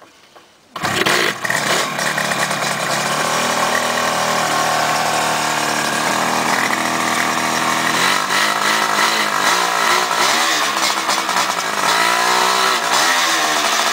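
1974 Yamaha RD two-stroke parallel twin starting from cold on the choke: it fires and catches suddenly about a second in and runs steadily. In the second half the throttle is blipped, the revs rising and falling several times.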